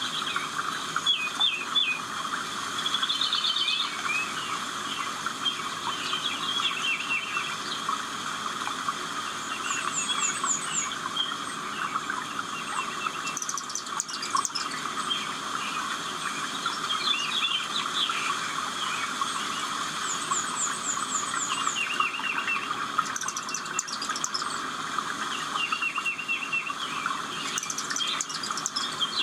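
Several wild birds singing and calling at once: short chirps and quick repeated trills, some very high, over a steady dense background of calls.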